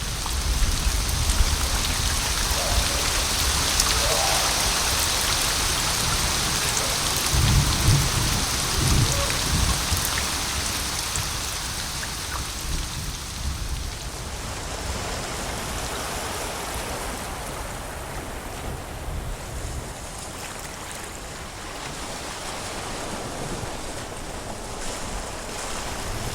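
Steady rain with low rolls of thunder, one near the start and another about eight seconds in; the rain eases off through the second half.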